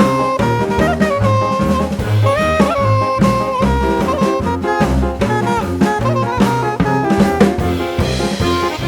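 Upbeat jazzy background music: a saxophone-like lead melody with bending notes over a steady bass line and drum kit beat.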